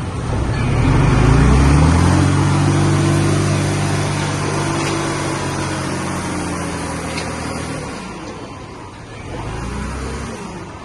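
Heavy-equipment diesel engine revving up over the first two seconds, then running steadily under load before easing off about eight seconds in, followed by a shorter, lower surge near the end.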